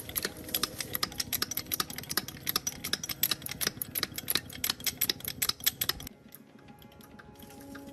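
A fast, irregular run of sharp clicks or taps, several a second, that stops abruptly about six seconds in.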